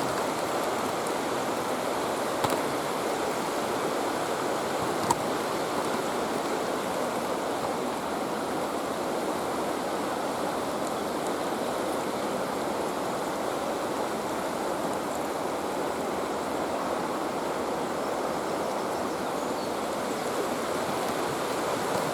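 Steady rushing of a river's flowing water, with two brief clicks in the first few seconds.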